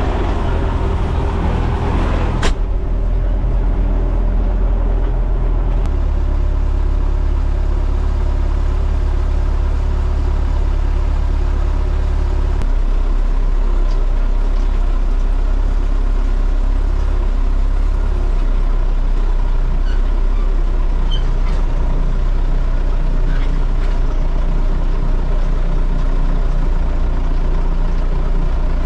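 Combine harvester's diesel engine running steadily under load, a deep drone that shifts pitch a few times as it travels, with one sharp knock about two seconds in.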